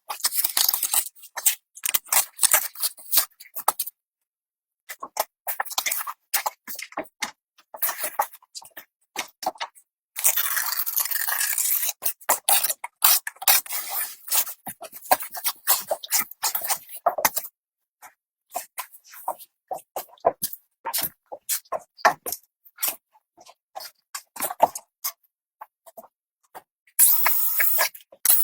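Scraping and crunching of hand work, many quick irregular clicks and scrapes. A longer steady scrape comes about ten seconds in and again near the end. The sound drops out completely for about a second twice.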